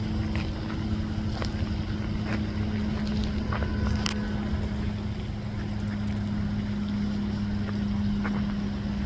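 A steady motor hum, one even held tone over a low rumble, with a few faint clicks.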